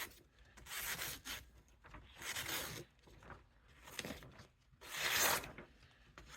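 Henckels chef knife blade slicing through a sheet of paper in about five separate strokes, each a short papery swish, the loudest near the end. This is a paper test of the edge freshly sharpened to 600 grit, and it cuts cleanly from the tip.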